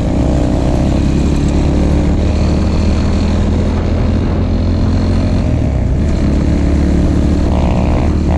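Enduro motorcycle engine running under way at fairly steady revs, with wind noise on the microphone.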